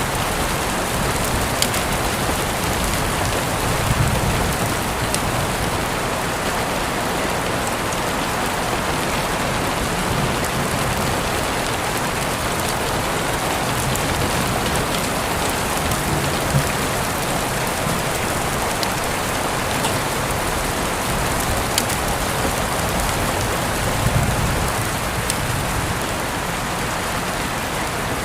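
Steady rain falling on surfaces, an even hiss with now and then a single drop ticking out more sharply.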